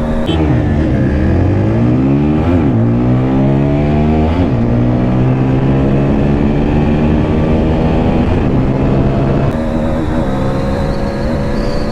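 Single-cylinder 160 cc motorcycle engine at full throttle in a drag race. The revs climb, drop sharply at upshifts about two and a half and four and a half seconds in, then rise slowly and hold high near top speed.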